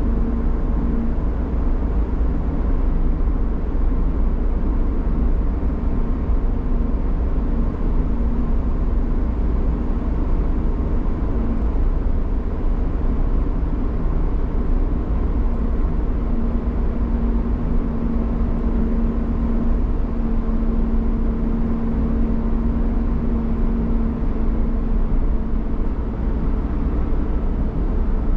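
Car driving at a steady speed: continuous engine and road noise with a low rumble and a steady hum that fades slightly and returns.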